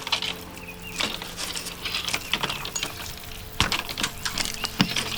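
Irregular clicking, scraping and knocking of hand demolition work on building materials, with two sharp strikes in the second half.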